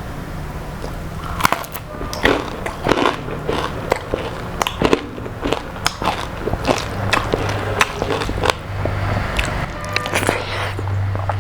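Close-miked eating: crunchy bites and chewing of crisp fried food, an irregular run of crackly crunches starting about a second and a half in.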